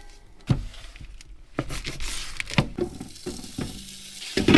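Food frying in a pan with a faint sizzle, and scattered clicks and knocks of cooking utensils. A louder clatter comes near the end.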